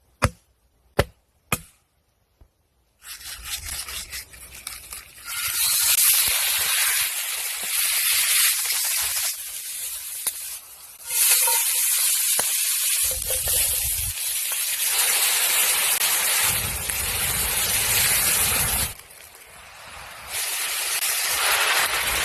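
Three sharp clicks, then loud hissing sizzle of food frying in a hot pan, swelling and dropping several times with a deeper rumble underneath in places.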